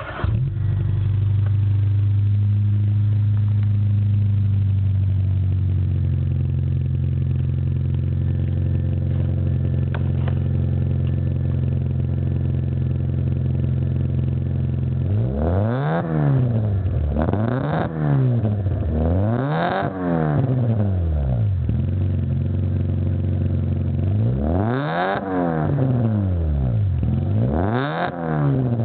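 Fiat Cinquecento Sporting's four-cylinder petrol engine idling just after a cold start, heard through a Magnex stainless steel rear exhaust box. From about halfway it is revved in five short blips, three in quick succession and then two more, each rising and falling back to idle.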